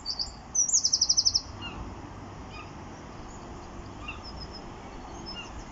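A small songbird singing: high chirps, then a rapid trill of about ten notes about a second in, followed by faint scattered chirps over a steady low background noise.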